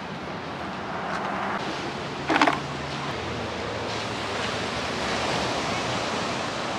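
Steady wash of ocean surf with some wind on the microphone, and a brief vocal shout about two seconds in.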